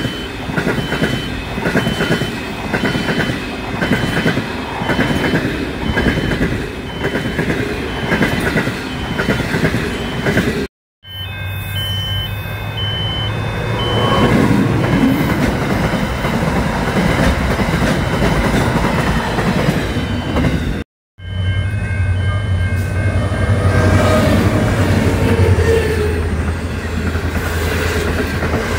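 Trains passing close by, in three cut-together takes. First a passenger train rattles past with rhythmic wheel clacks. Then a diesel freight locomotive runs by with a steady low engine drone, followed by freight wagons rolling past, while a level-crossing bell rings in quick even strokes through the first and last parts.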